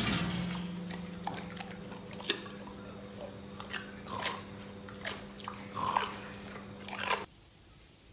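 Crunchy biting and chewing, a run of irregular sharp crunches over a steady low hum, cutting off suddenly near the end.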